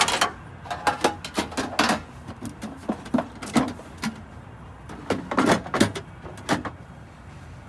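A run of sharp, irregular knocks and clicks of hard objects being handled, most frequent early on and again about five to six seconds in, then dying away.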